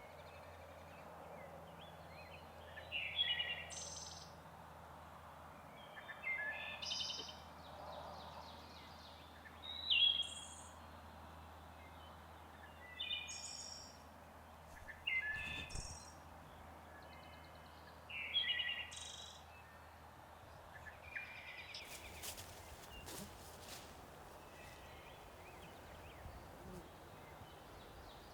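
A songbird singing short chirpy phrases, one about every three seconds, over a faint steady low hum. In the last few seconds the singing stops and there are a few soft clicks and rustles.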